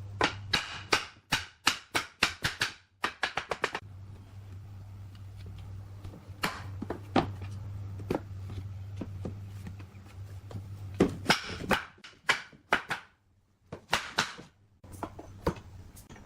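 Wood being struck again and again in quick runs of sharp knocks, over a steady low hum.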